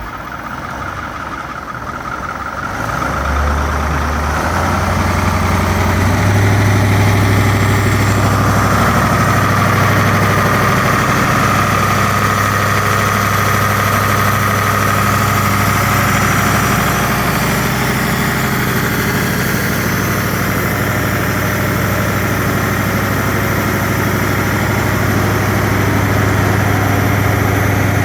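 Caterpillar diesel engine of a Ford 8000 twin-screw grain truck idling. Its speed rises over the first few seconds, then holds at a steady idle, with a faint whine over it for a while in the middle.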